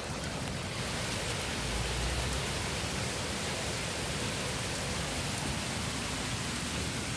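Heavy rain pouring down, a dense, steady hiss of rain.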